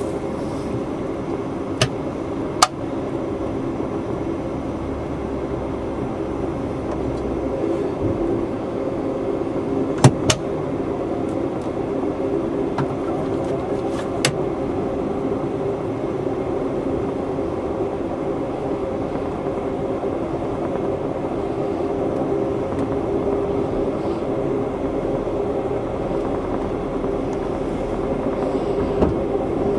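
Amtrak passenger train running, heard from aboard: a steady rumble of the moving train, with a few sharp clicks about two, ten and fourteen seconds in.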